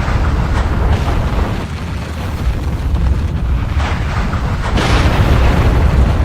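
Volcanic eruption: a continuous deep rumble with rushing, hissing surges, swelling louder from about four and a half seconds in.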